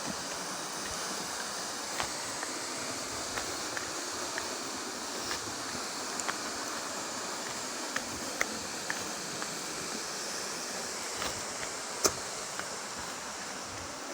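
Steady rushing of water from a mountain stream or small waterfall, with scattered light clicks and knocks of footsteps on the trail, one sharper knock about twelve seconds in.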